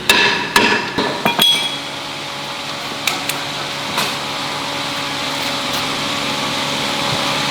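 Sharp metallic knocks with a brief ring, metal struck on metal as in hammering on gearbox parts: a quick cluster of about five in the first second and a half, then two single knocks about 3 and 4 seconds in, over a steady background hum.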